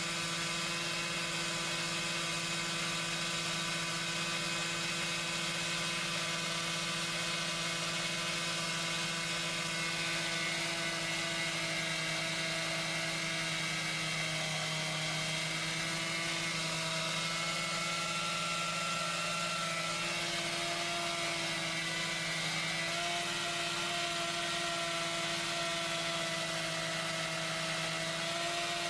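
Chainsaw running steadily, a constant whine made of several stacked tones whose pitch wavers slightly now and then.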